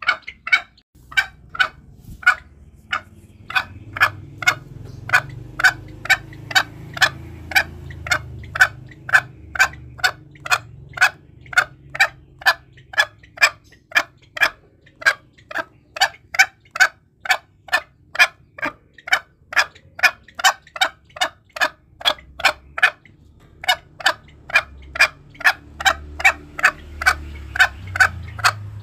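Green junglefowl giving a steady series of short, sharp clucks, about two to three a second, as used to lure wild junglefowl. A low rumble runs under parts of the series.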